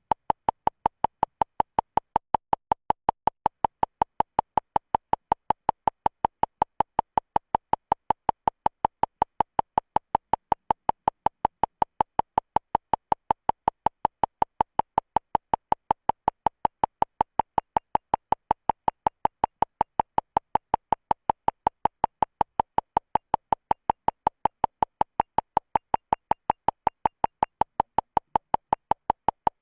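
A short electronic beep repeating rapidly and evenly, about three to four times a second, without any change in pitch or pace.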